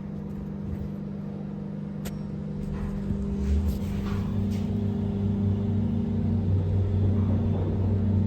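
Liftronic machine-room-less traction lift running: a steady electrical hum with a low rumble that swells from about three seconds in.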